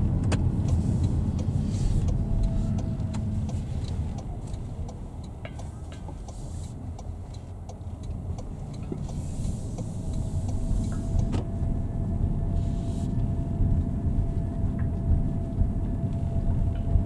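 Car driving, with a steady low rumble of engine and road that eases off in the middle and builds again. A faint steady whine runs through the second half, and there are a few light clicks.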